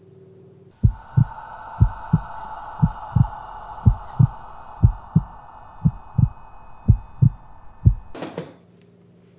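Heartbeat sound effect: paired lub-dub thumps about once a second over a steady drone. It stops abruptly with a short burst of noise about eight seconds in.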